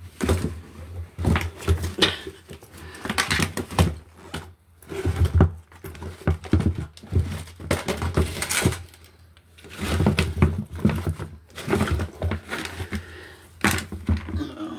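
Shoes and other loose objects being rummaged through and moved by hand while searching for a lost screw: a run of irregular knocks, thuds and rustles.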